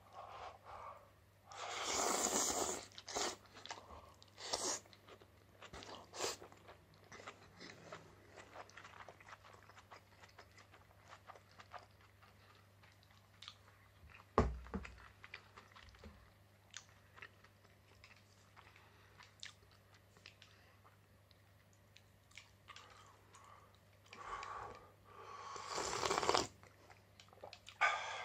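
A person chewing and crunching food close to the microphone, with many small mouth clicks and soft bites. There are two longer, louder noisy sounds, one near the start and one near the end, and a single dull thump about halfway through.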